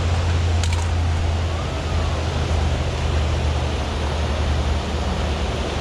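Steady rushing of river water with a strong low rumble, and a couple of short clicks about two-thirds of a second in.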